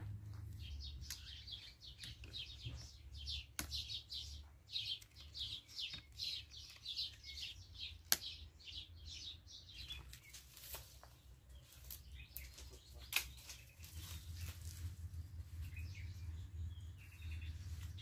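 A bird chirping in a fast, repeated run, mostly in the first half, over a low rumble, with scattered sharp clicks.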